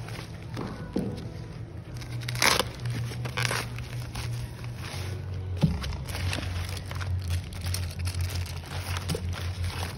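Packaging being handled and opened: plastic or paper crinkling and rustling, with a few sharper crackles and snaps, over a steady low hum.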